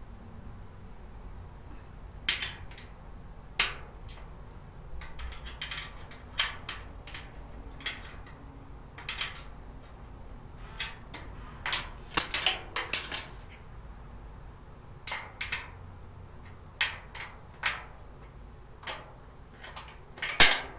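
Storage cart parts and a small hand tool clicking, clinking and knocking irregularly during assembly, with a busier run of knocks about halfway through and the loudest knock near the end.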